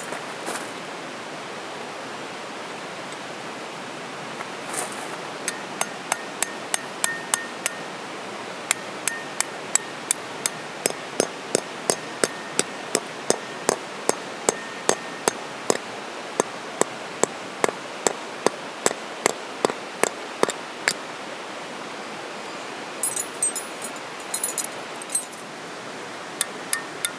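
A hammer striking metal tent pegs, a long run of sharp ringing blows at about two to three a second, with a brief jingle of metal pieces clinking together in a pause before the blows start again.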